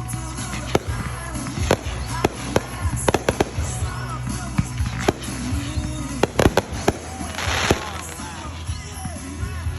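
Fireworks going off: a rapid, irregular series of sharp bangs, with a short noisy crackling burst about seven and a half seconds in.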